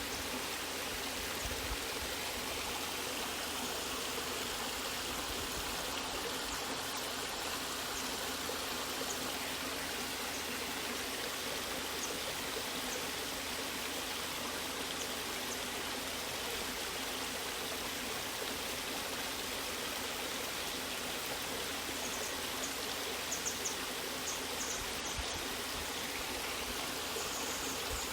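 Waterfall and stream water rushing steadily, an even, unbroken noise.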